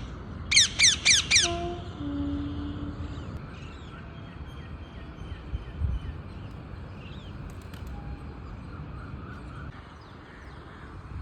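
Bird calls: four loud, harsh calls in quick succession, each falling in pitch, about half a second in, followed by faint scattered chirps over a steady outdoor background.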